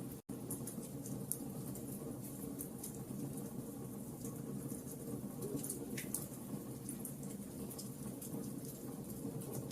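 Bonfire crackling: a steady rushing hiss of burning wood with frequent small sharp pops and snaps. The sound drops out for an instant just after the start.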